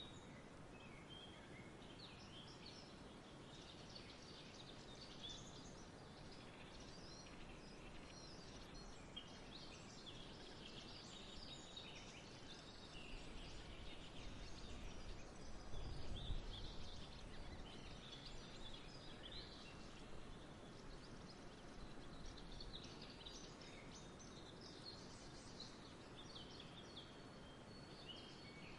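Faint outdoor ambience of many birds chirping and twittering, over a soft steady background hiss, with a low rumble swelling and fading about halfway through.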